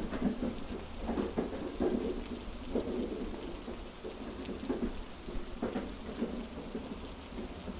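Ambient mix of heavy rain and a train carriage: a steady low rumble under the rain, with irregular clacks of the wheels over the rail joints.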